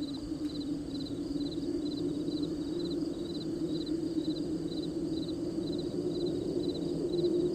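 Crickets chirping at night, each chirp a short trill repeated about twice a second, over a steady low drone.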